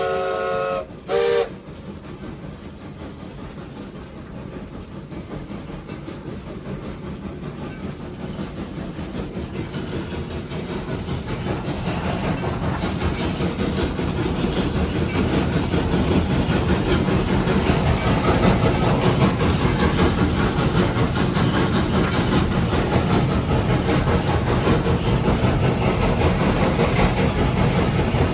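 Steam locomotive No. 81's chime whistle finishes a blast, then gives one short toot. The engine's exhaust chuffs start up and build, getting louder and quicker as the locomotive pulls away and gains speed, then settle into a steady working beat.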